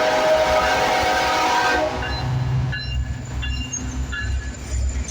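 Diesel locomotive horn sounding a steady chord over the rush of the passing train, cutting off about two seconds in, followed by the low rumble of the locomotive's diesel engine.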